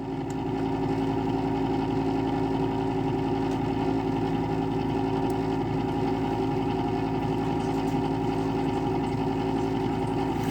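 1988 Lennox Pulse 21 pulse-combustion furnace running, a steady droning hum with several held tones.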